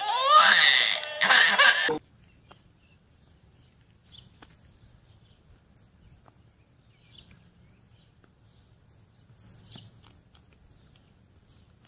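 A loud, rising high-pitched squeal twice in the first two seconds, then faint outdoor ambience with scattered soft bird chirps.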